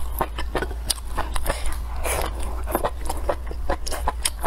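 Close-miked chewing and biting of spicy hot pot food: many quick wet clicks and smacks of the mouth, with a longer noisy stretch about two seconds in.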